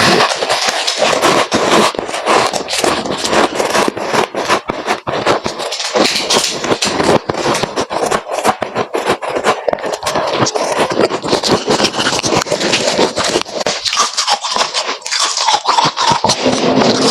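Freezer frost crunching and scraping close to the microphone: a dense, continuous run of sharp crackles.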